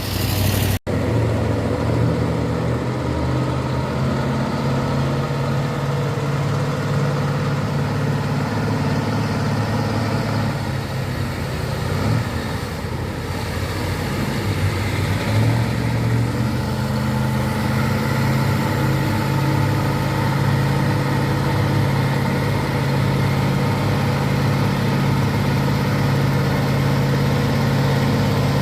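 Truck engine running steadily, its pitch dipping around the middle and then rising again and holding.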